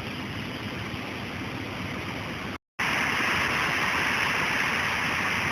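Steady hiss of heavy storm rain. It breaks off in a brief silent gap about halfway through, then comes back louder and brighter.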